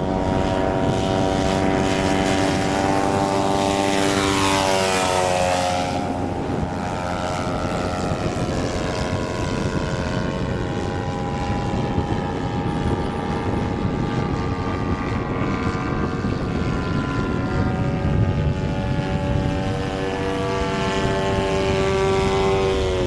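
Engine and propeller of a large radio-controlled model airplane running in flight, its pitch sliding down about four to six seconds in as it passes, then holding steady.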